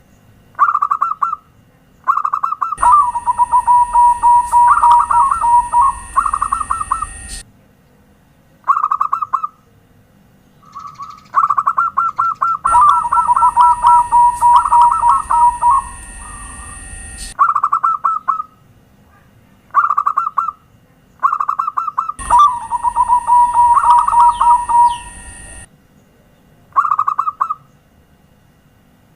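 Zebra dove (perkutut) cooing: short bursts of rapid staccato coos, and three longer phrases that run into a lower rolling trill. A steady high tone sounds along with each long phrase. The same song comes round three times, about every ten seconds, as a looped lure track.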